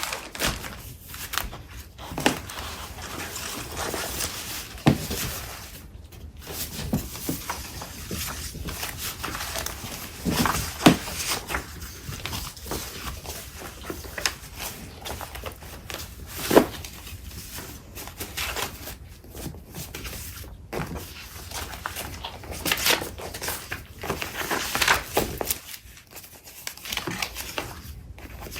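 Sheets of craft paper and packaging being shuffled and handled, rustling and crinkling, with a few sharp taps and knocks as items are set down.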